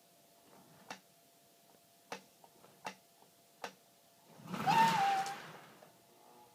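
Toy train set: four sharp clicks about a second apart, then about a second of hiss with a short wavering tone about four and a half seconds in.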